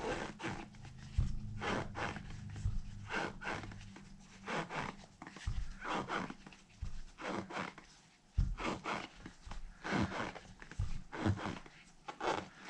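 Hand tools at work on the bolts of a 1/5-scale RC car wheel while a paddle tire is fitted: short scraping strokes about once or twice a second, with a few low knocks.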